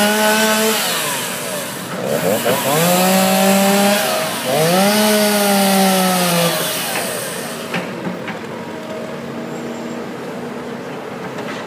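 Chainsaw cutting up the fallen tree, revved hard three times with its pitch sagging under load in each cut. After about seven seconds it drops back to a quieter idle, with a few sharp knocks.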